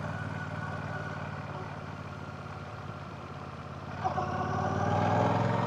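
Royal Enfield Classic 650's 648cc air/oil-cooled parallel-twin engine and exhaust running on the move, easing off for a few seconds, then the throttle opening about four seconds in and the engine getting louder as it pulls.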